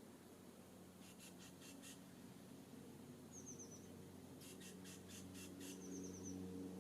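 Faint wild songbird calls: two runs of five or six rapid scratchy notes, and twice a short high trill of quick falling chirps.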